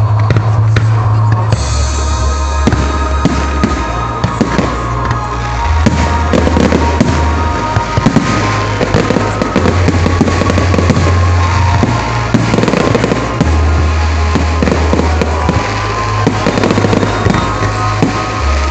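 Fireworks bursting and crackling in quick succession, over loud music with a heavy bass line played through loudspeakers for the display.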